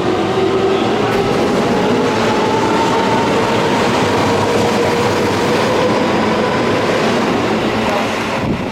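Electric commuter train running alongside the platform, its motor whine slowly rising in pitch over the rumble of the wheels, as a train pulling away does. The sound eases off near the end.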